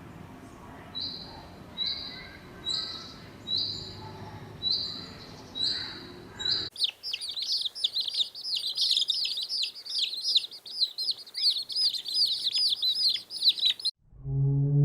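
Birds chirping: a single bird gives short, even high chirps about once a second, then after a cut a dense chorus of rapid, overlapping chirps.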